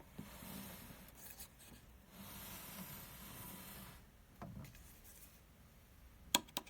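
Hands handling the plastic humidifier: soft rubbing and scraping of plastic in two stretches, then a few sharp clicks near the end.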